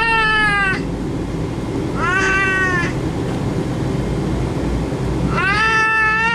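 A cat meowing three times, each meow about a second long and rising then falling in pitch, over the steady low rumble of an airliner cabin.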